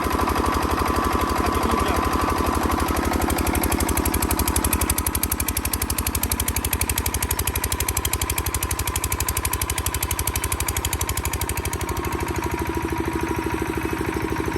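Diesel engine of a 6 kVA Bajaj silent-type (canopy-enclosed) generator set running steadily with a fast, even knock, a little quieter about five seconds in.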